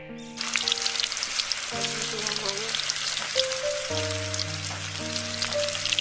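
Battered cauliflower pakoras deep-frying in hot oil in a kadai: a loud, dense crackling sizzle that starts suddenly about half a second in. Background music plays underneath.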